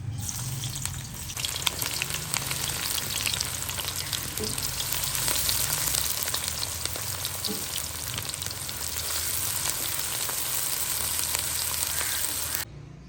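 Food frying: a steady sizzle full of small crackles and pops, which cuts off abruptly near the end.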